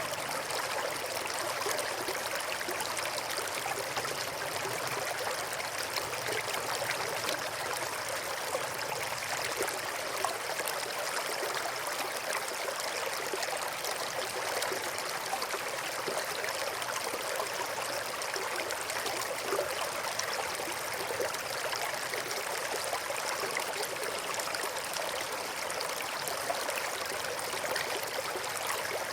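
River water flowing over and between rocks: a steady babbling rush with fine trickling and gurgling, even throughout.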